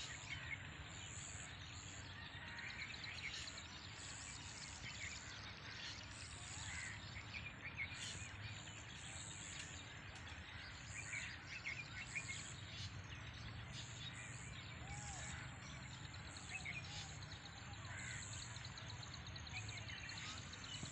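Outdoor rural ambience: birds chirping on and off, with short high chirps repeating about once a second over a steady low background noise.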